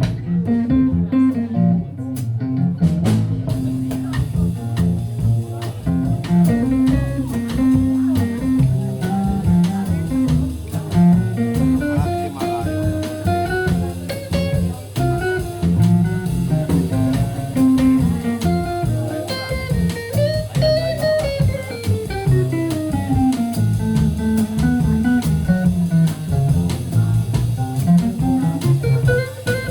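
A jazz-soul band playing, with guitar to the fore over double bass and drums; a melodic line moves up and down over a steady low bass.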